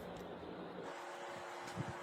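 Small 7cc vertical engine running steadily. A steady hum with clear tones comes in a little under a second in.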